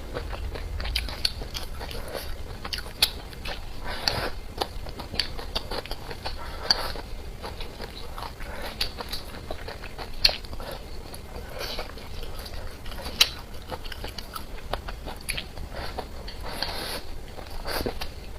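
Close-up eating sounds: a person biting and chewing food with wet smacks and frequent crunchy clicks, a few louder snaps standing out.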